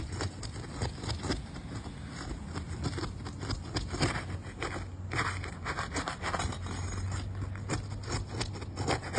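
Asphalt shingle seal strips being broken: a tool worked under the shingle tabs, scraping and crackling with many short clicks as the adhesive lets go.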